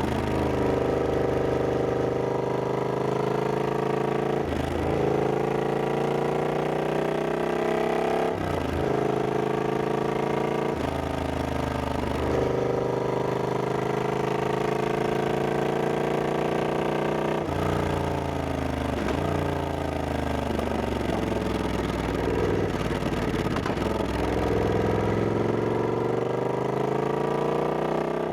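Triumph Scrambler 1200X's 1200 cc parallel-twin engine under way, its pitch rising and falling with the throttle. The pitch drops sharply and then climbs again about half a dozen times as the bike changes gear.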